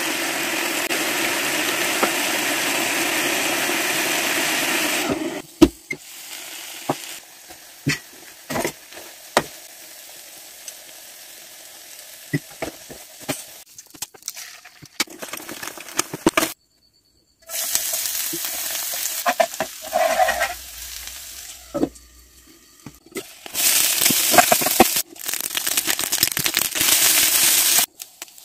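Stir-frying in a pan: chopped vegetables and then rice sizzling in hot oil while a spatula stirs, scrapes and taps against the pan. Loud stretches of sizzling alternate with quieter spells of clicks and taps.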